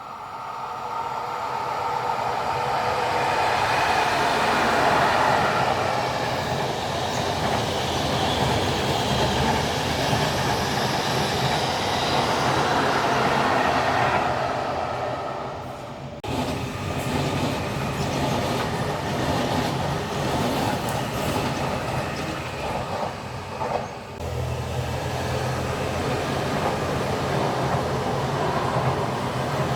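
A train running past on the track: wheel and rail noise swells and fades over the first quarter-minute, then changes abruptly to a rhythm of wheel clicks over the rails, with another abrupt change about 24 seconds in.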